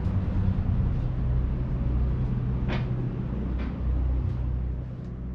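Steady low rumble and hum, with two faint clicks about three seconds in.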